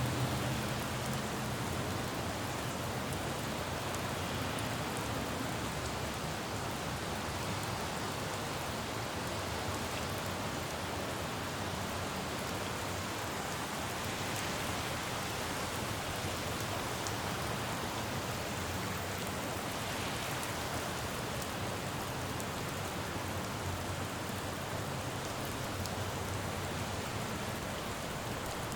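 Steady rain falling on a road, a constant even hiss with scattered drip ticks. A low rumble of passing traffic underneath fades out in the first second or two and returns faintly near the end.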